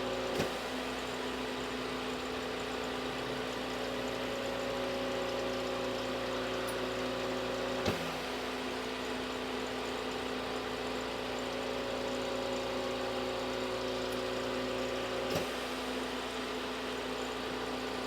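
Steady mechanical hum made of several held tones over a hiss, with a few faint clicks.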